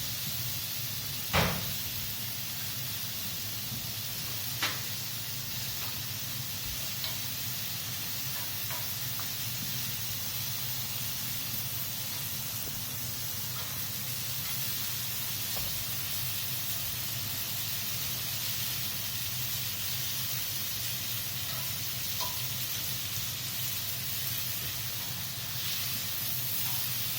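Bok choy and scallions sizzling on a hot gas barbecue grill, a steady hiss, with a sharp knock about a second and a half in and a lighter one a few seconds later.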